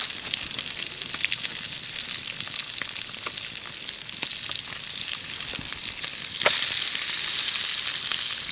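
Strips of fish frying in a pan over low heat, a steady sizzle with many small crackles. The sizzle gets louder about six and a half seconds in.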